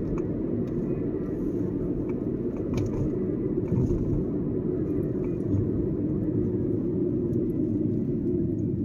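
Steady road and engine noise of a moving car, heard from inside the cabin, an even low rumble with a few faint ticks.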